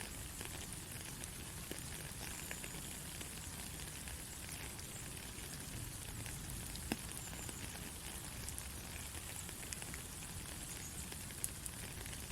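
Soft, steady rain hiss with scattered single drops ticking, one sharper tick about seven seconds in.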